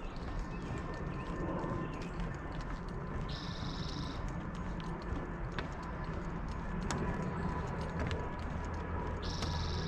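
Outdoor nature-trail ambience: scattered light footstep-like clicks, and a high buzzy animal call heard twice, about six seconds apart. A low rumble of a distant aircraft builds near the end.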